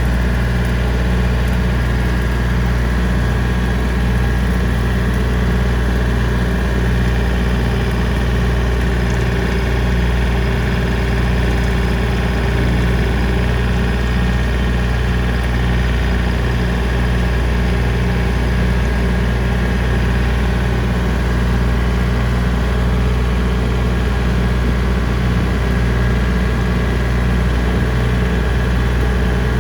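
John Deere 3025D compact tractor's three-cylinder diesel engine running steadily at a constant speed while pulling and driving a rotary brush cutter (brush hog).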